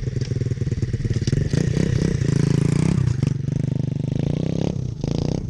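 Dirt bike engine running loud and revving under throttle as the bike is ridden, its pitch rising and falling, easing off near the end.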